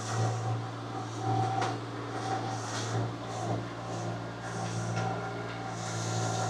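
Engine of a small earthmoving machine running steadily at work, with a higher whine that comes and goes and a few light knocks.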